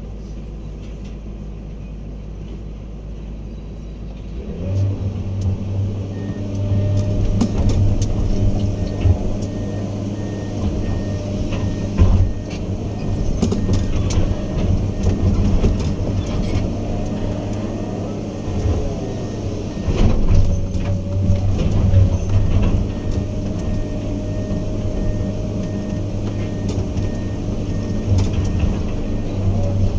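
Diesel engine of heavy earthmoving equipment, a hydraulic excavator or bulldozer. It hums low at first, then about four seconds in it runs up loudly under working load, with scattered clanks and knocks. Around two-thirds of the way through it briefly dips and changes pitch.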